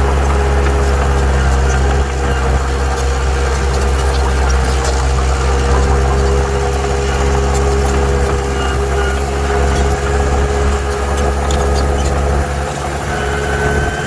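Heavy diesel engine of earthmoving machinery running steadily, deep and loud, with faint ticks over it.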